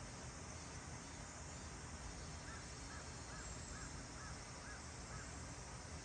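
Faint steady background hiss. About two and a half seconds in, a bird calls faintly seven times in quick, even succession, about two calls a second.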